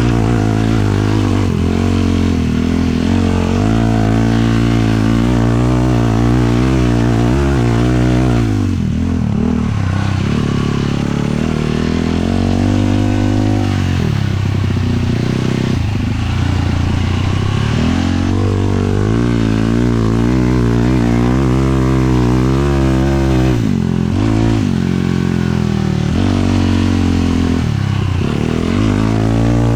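A 450cc single-cylinder four-stroke sport quad engine revving up and down under load while riding, with the throttle lifted or a gear changed briefly about five times.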